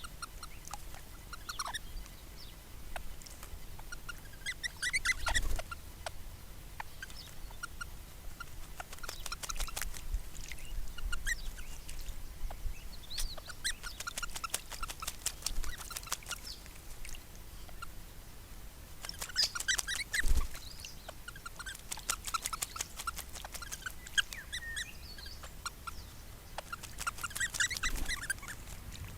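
Mallee ringneck parrots bathing in a water trough: bouts of quick splashing and flicking water, separated by quieter pauses, with an occasional louder splash.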